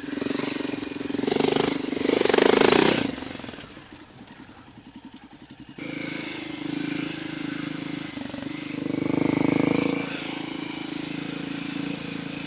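Dirt bike engine revving twice in the first few seconds, then dropping to a quiet, pulsing idle for a couple of seconds. It comes back abruptly running at speed and revs again near the end.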